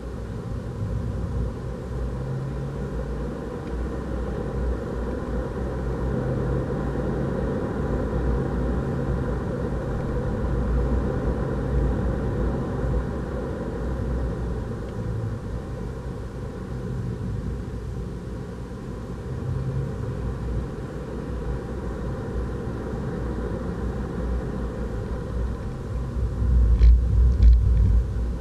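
Renault Clio RS 200's turbocharged four-cylinder engine pulling at track speed, heard from inside the cabin over steady tyre and road rumble, its note shifting up and down. Near the end there is a louder low rumble with a few sharp knocks.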